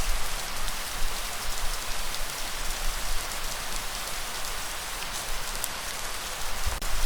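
Steady rainfall, a dense even hiss of drops. A deep low rumble swells at the start and again near the end.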